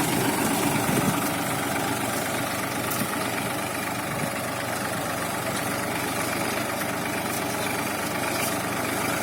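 TAFE 1035 tractor's three-cylinder diesel engine running steadily.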